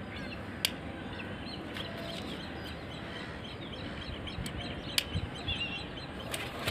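Birds chirping over steady outdoor background noise, with a few sharp clicks: one about half a second in and two near the end.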